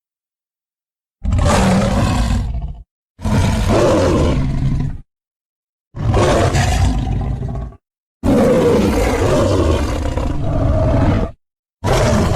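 Sound-effect roars of Griffon, a winged lion monster: five separate roars with dead silence between them, the fourth the longest, the last running on past the end.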